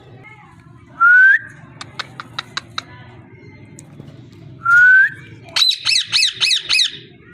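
Parrot calling: two short rising whistles, a run of sharp clicks between them, then a quick series of five harsh squawks near the end.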